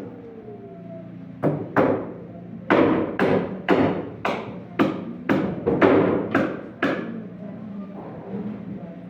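Hammer blows on wood: two strikes, then a steady run of about ten more at roughly two a second, stopping about seven seconds in.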